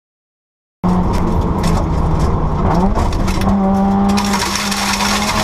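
Silence, then about a second in, a rally car's engine cuts in, running loud as heard from inside the cabin. Its pitch climbs about two seconds later and then holds steady, with scattered sharp clicks over it.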